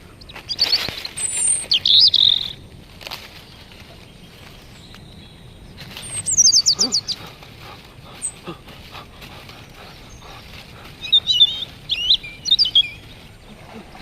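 Birds chirping in three short spells of sharp, high calls, the middle one a quick run of notes falling in pitch, over quiet outdoor background.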